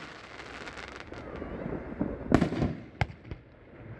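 Consumer firework cake firing aerial shots outdoors: crackling, then a loud boom about two seconds in and a sharp crack a moment later.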